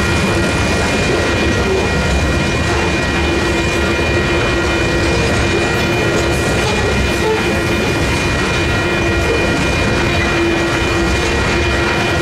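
Freight train of covered hopper cars rolling past close by: a steady, loud run of steel wheels on the rails, with a few steady ringing tones underneath.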